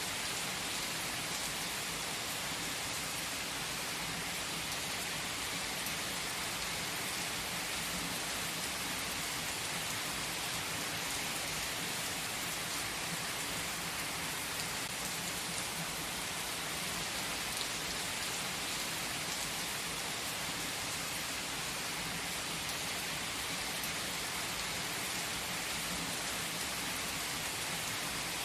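Steady rain falling on a surface, an even hiss that never changes in level.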